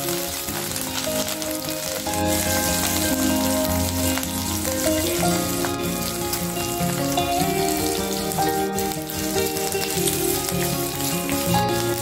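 Oil sizzling steadily in a kadai as pirandai stems, curry leaves and green chillies fry over a medium flame, with a few knocks and scrapes of a wooden spatula stirring. Background music with held notes plays underneath.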